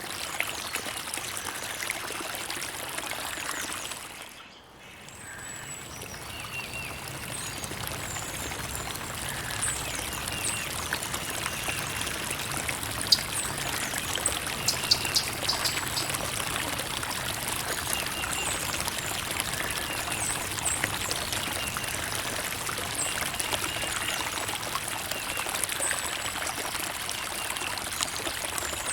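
Creek water trickling and babbling over stones, steady, with small splashes. It briefly fades out and comes back about four seconds in.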